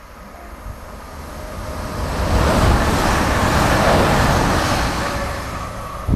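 CrossCountry Voyager diesel multiple unit running through the station at speed without stopping. A rushing rumble of wheels and engines builds, is loudest in the middle seconds, then fades as the train goes away.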